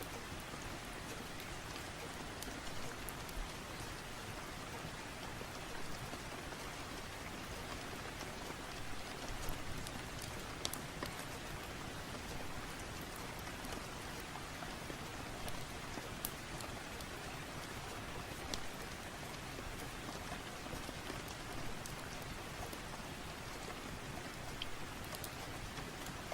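Steady rain hiss with scattered sharp crackles and pops from a wood fire in a fireplace.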